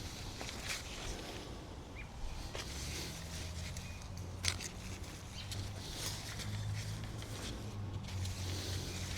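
Light handling noises as a garden cage of wooden stakes is set up around a plant: scattered small knocks and clicks with some rustling. A faint low hum comes in about three seconds in.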